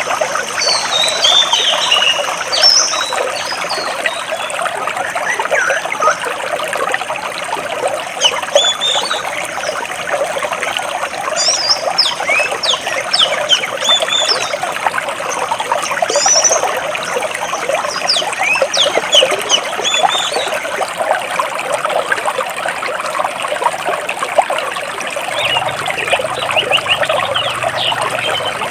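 Stream water trickling and splashing between rocks in a steady, dense babble. Small birds chirp at intervals above it, in short high calls that come and go every few seconds.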